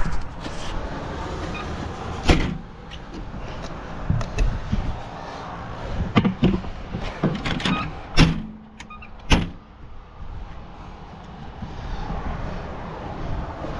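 A handful of sharp knocks and clunks scattered over several seconds, the strongest about two, six, eight and nine seconds in, over a steady background rumble.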